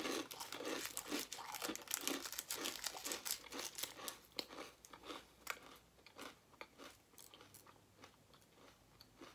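Crisp fortune cookie being crunched and chewed close to the microphone, dense crackling for about six seconds, then fainter and sparser.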